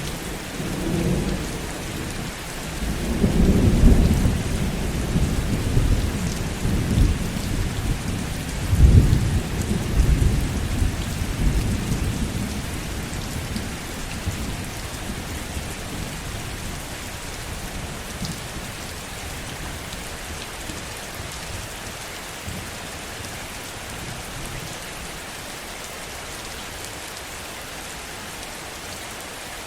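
Steady heavy rain with rolling thunder: low rumbles swell several times in the first dozen seconds, loudest at about four and nine seconds, then die away and leave only the rain.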